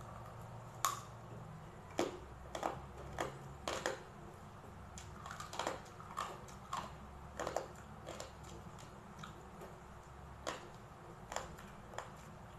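Mouth chewing and crunching crispy deep-fried pork belly skin, in irregular crisp crunches about one or two a second.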